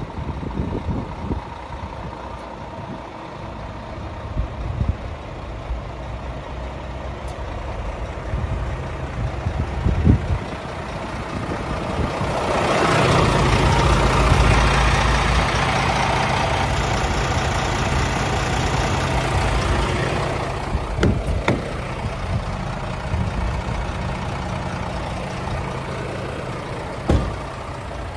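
Scania S500 truck's diesel engine running at idle. In the middle it grows louder for several seconds with a rushing hiss over the engine note, and there are a few short knocks.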